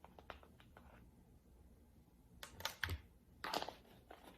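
Light clicks and taps of a measuring spoon and spice jar being handled while ground spice is measured out, with a cluster of sharper taps about two and a half to three and a half seconds in.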